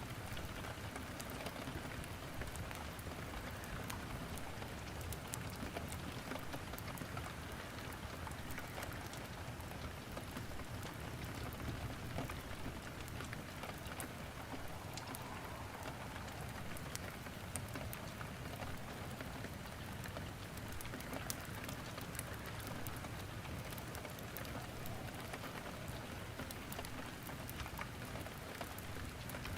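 Steady rain, with many small sharp crackles and pops of wood burning in a fireplace scattered through it.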